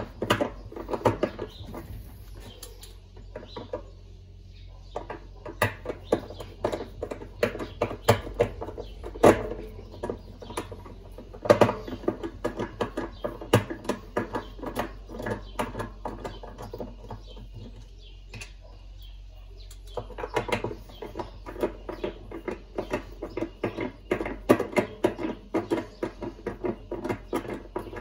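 Irregular clicks, taps and clinks of hand tools and metal and plastic washing-machine parts being handled during disassembly, pausing briefly twice, over a steady low hum.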